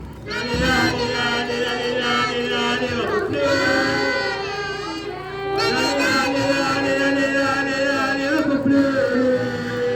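Loud singing with crowd noise, in long held phrases that break off briefly about three seconds in and again a little past halfway.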